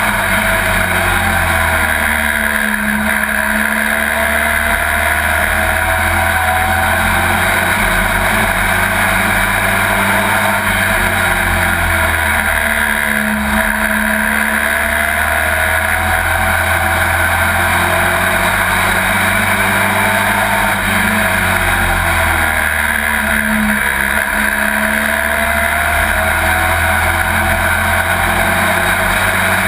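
Pro Truck race truck's engine at race speed heard from inside the cab, easing off and dropping in pitch about every ten seconds for each turn, then climbing again down the straights.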